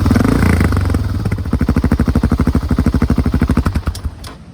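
BMW F650GS single-cylinder engine idling through an aftermarket Dominator exhaust with its 7 dB restrictor fitted: a steady, rapid exhaust beat that fades out near the end.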